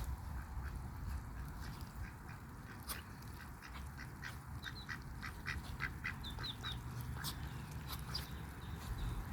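Ducks quacking in a run of short, quick calls, with a few small high chirps mixed in, over a steady low rumble.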